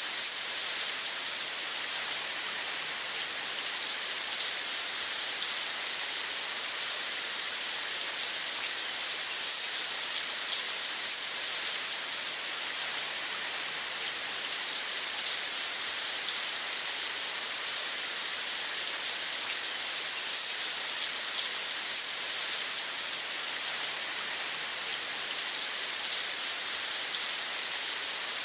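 Steady rain falling: an even hiss of many fine drops, unchanging throughout.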